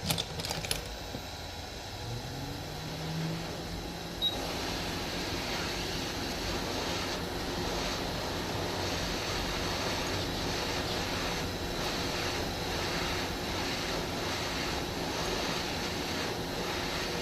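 Hot air rework station blowing steadily on a phone logic board, a rush of air that grows a little louder after a click about four seconds in.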